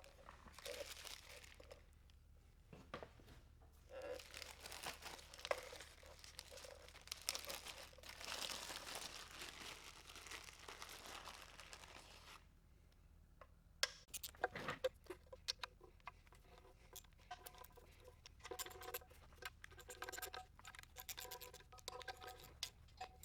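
Tearing and crinkling handling noise for about the first twelve seconds, then a string of light clicks and clatter, all fairly quiet.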